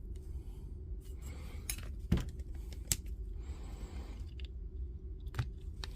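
Small hand tools and parts being handled during a soldering repair of a power tool: a few sharp clicks and soft scraping over a steady low hum.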